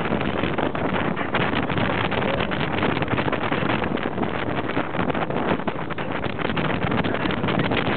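Steady rush of wind on the microphone over the running of a moving motorboat.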